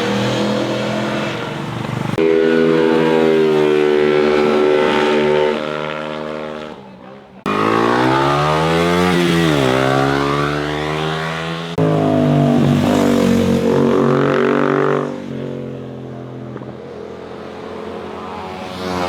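Motorcycle engines running hard on a winding road, heard in several separate passes that cut abruptly from one to the next. In one pass the engine note drops, then climbs again as the bike slows and accelerates back out.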